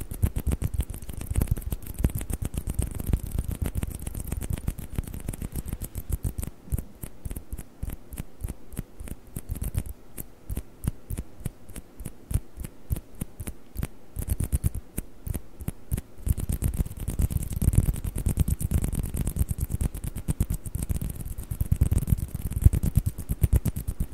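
Rapid, continuous tapping on hollow plastic table tennis balls, with many light clicky taps each second.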